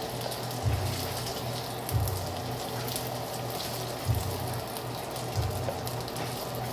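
Chicken pieces sizzling in oil in a nonstick wok, a steady crackling hiss with scattered light clicks of the utensil against the pan as pieces are lifted out. A low thump repeats about every second and a quarter underneath.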